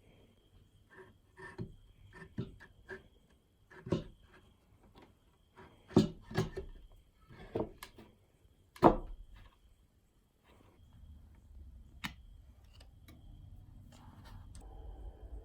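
Irregular light clicks and knocks of small objects being handled and set down, the sharpest about six and nine seconds in.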